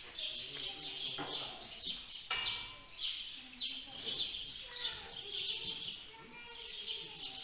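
Small birds chirping: short, high phrases repeating every second or so.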